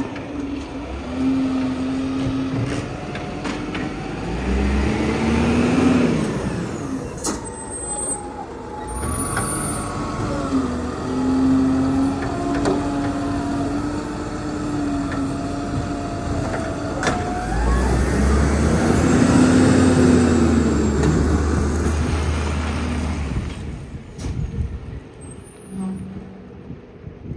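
Garbage truck's diesel engine working and pulling away, its pitch rising and dropping several times, with two short sharp air-brake hisses about 7 and 17 seconds in. The sound falls away near the end.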